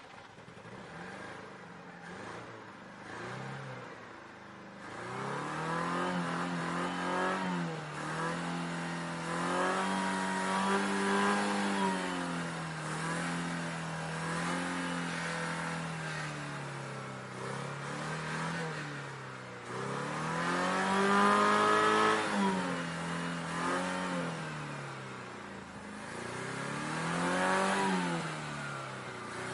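A car engine revved again and again, its pitch climbing and dropping back to idle, with the longest, loudest revs near the middle and about two-thirds of the way through.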